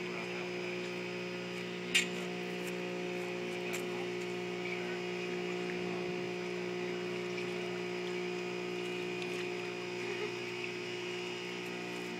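A small fishing boat's engine running steadily, a constant hum with several even tones. A single sharp click about two seconds in.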